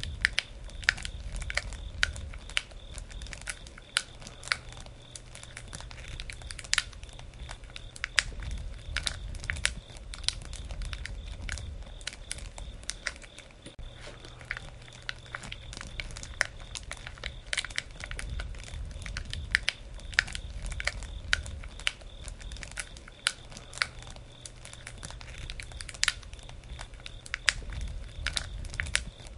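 Wood campfire burning, with irregular sharp crackles and pops over a low rumble of the flames.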